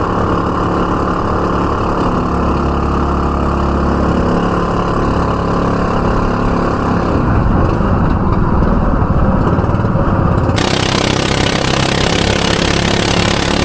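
Small outboard motor on a homemade mini motorboat running steadily under way. It turns rougher about seven seconds in, and a broad hiss comes in suddenly about ten and a half seconds in.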